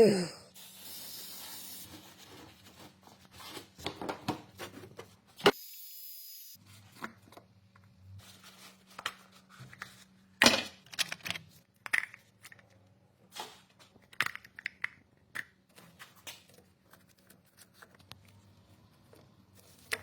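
Scattered clicks, knocks and rustling from hand work on parts and tools during an oil and filter change, with a short hiss about five and a half seconds in.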